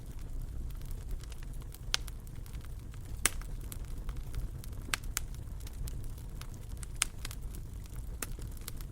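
Wood fire burning in a fireplace: a steady low rumble of flames with sharp crackles and pops every second or so, the loudest a little over three seconds in and again about seven seconds in.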